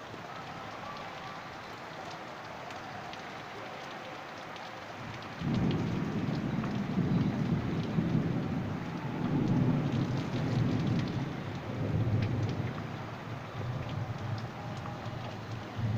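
Steady rainfall with scattered drips. About five seconds in, a long low rumble of thunder sets in suddenly and rolls on, swelling and fading in waves.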